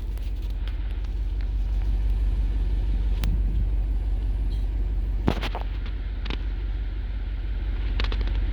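Jeep Wrangler 392's 6.4-litre V8 running at low speed as a steady low rumble, with a few sharp clicks, the loudest about five seconds in.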